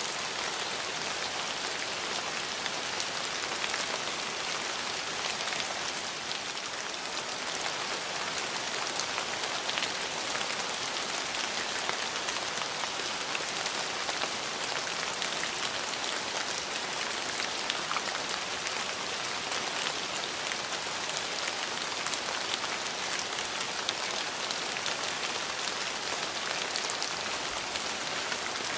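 Steady rain falling and pattering on surfaces, an even hiss with many small scattered drop ticks.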